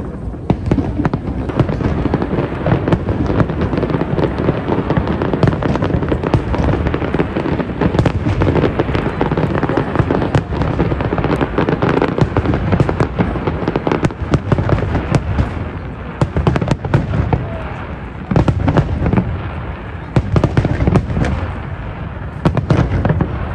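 Fireworks display going off in rapid succession: a continuous barrage of booming shell bursts and crackling, with many sharp bangs on a low, echoing rumble.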